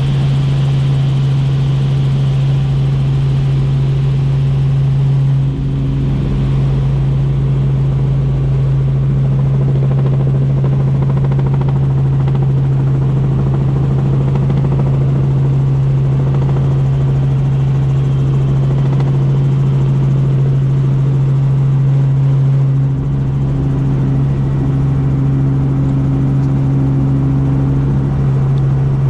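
Helicopter in flight heard from inside the cabin: a loud, steady rotor and engine drone with a strong low hum.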